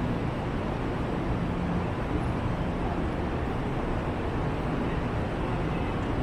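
Steady rumble and hiss of a high-speed railway platform beside a parked Fuxing train, with a low hum that fades about two seconds in.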